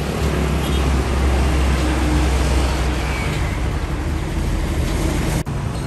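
A large truck's engine running with a steady low rumble amid road noise, broken by a brief sudden dropout near the end.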